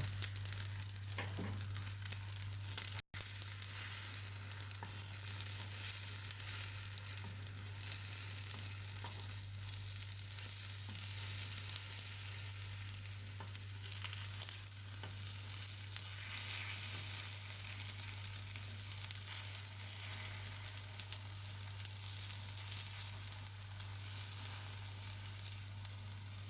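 Egg omelette mixture sizzling in hot oil in the cups of a kuzhi paniyaram pan as the pieces are turned over: a steady frying hiss over a steady low hum, with a few faint clicks.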